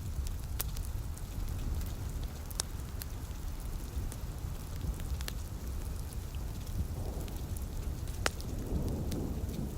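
Wood fire crackling, with scattered sharp pops, over steady rain and a low rumble underneath.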